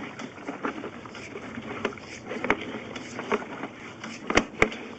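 Sewer inspection camera's push cable being fed down through a cast iron cleanout, scraping steadily with a handful of irregular sharp clicks and knocks.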